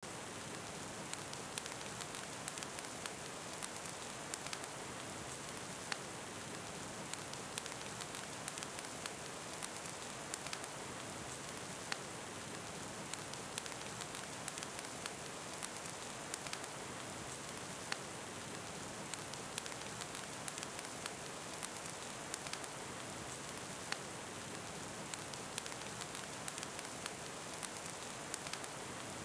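Steady rain falling, with a fireplace crackling through it in frequent short, sharp pops.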